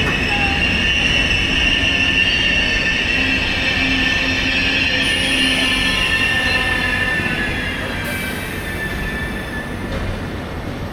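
A railway train moving slowly with a steady high steel-on-steel squeal from its wheels over a low rumble; the squeal fades away over the last few seconds.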